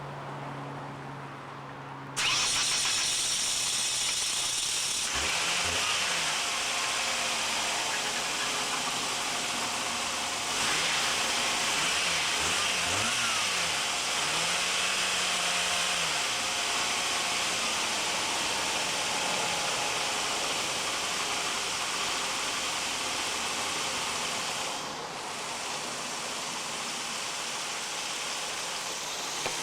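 A car's fuel-injected, distributor-ignition engine is started, catching about two seconds in and then running steadily. Its pitch rises and falls a few times in the middle, and it settles a little quieter near the end. This is the first start after a replaced fuel injector and the correction of swapped number 2 and number 4 spark plug wires, done to cure a misfire.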